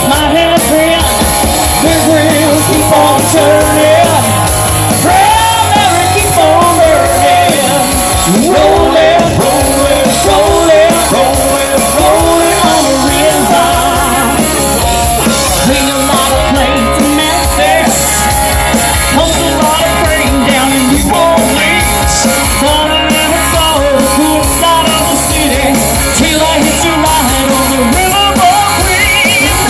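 Rock band playing with a singer, loud and continuous: sung melody over guitar, bass and drums.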